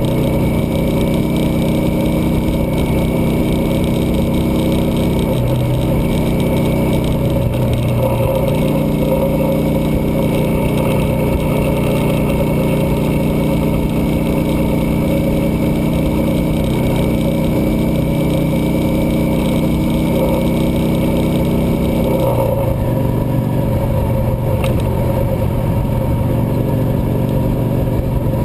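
Cruiser motorcycle engine running steadily on the road, its note changing several times along the way.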